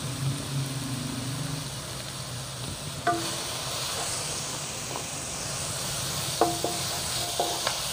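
Onion, tomato and spice masala sizzling in a nonstick wok, stirred with a wooden spatula that knocks and scrapes against the pan from about three seconds in. A low rumble, which the cook takes for thunder, runs under the first few seconds.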